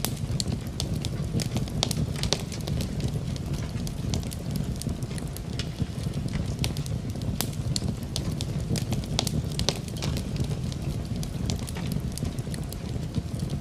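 Wood fire in a fireplace crackling, with frequent sharp irregular pops over a steady low rumble, blended with steady rain.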